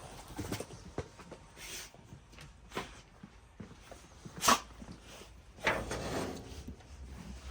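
A dog making a few short vocal sounds, the loudest about halfway through, then a longer, drawn-out one about six seconds in.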